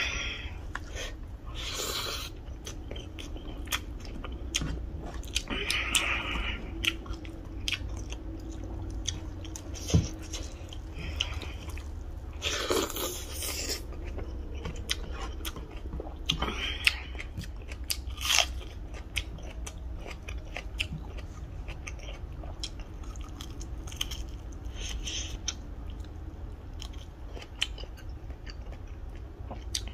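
Close-up mukbang eating sounds: chewing and biting mouthfuls of rice and chicken eaten by hand, with many wet mouth clicks and a few louder crunches, over a steady low hum.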